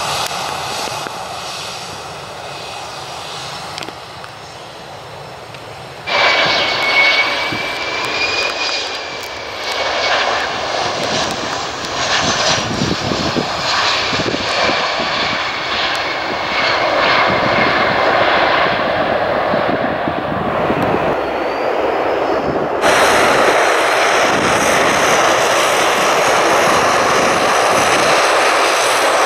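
Aircraft turbine engines running, a steady roar with a high whine that drifts slightly in pitch. The sound changes abruptly three times, about four, six and twenty-three seconds in, louder and brighter after each of the last two changes.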